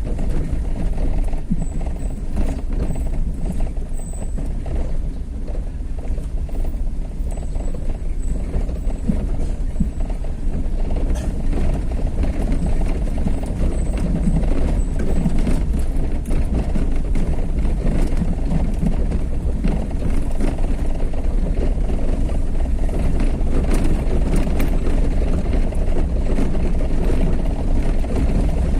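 Steady low rumble of a vehicle driving along a road, with scattered small knocks over it.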